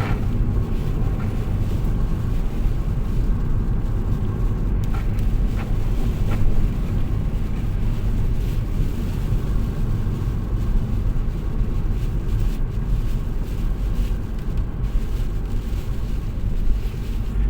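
Steady low rumble of a car on the move, heard from inside the cabin: tyre and engine noise, with a few light ticks around five to six seconds in.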